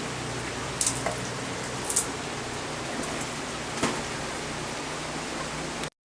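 Steady rain hiss, with a few sharper drip-like taps about one, two and four seconds in; it cuts off abruptly near the end.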